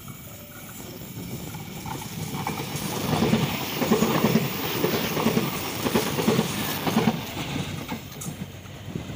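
A passenger train passing close by, its wheels clattering over the rail joints in pairs about once a second. The noise builds from about three seconds in and fades near the end.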